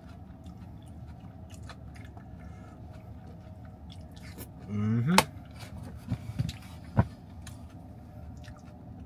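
A person chewing a mouthful of food with wet mouth noises. About five seconds in comes a brief rising hum from the eater, then a few sharp clicks.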